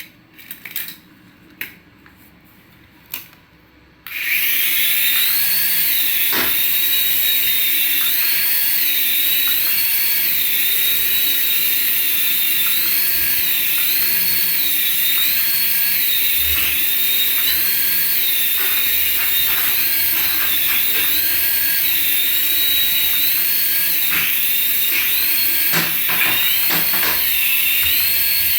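Small electric motor of a remote-control toy whining at high speed, its pitch wavering slightly up and down. It starts suddenly about four seconds in, after a few light clicks.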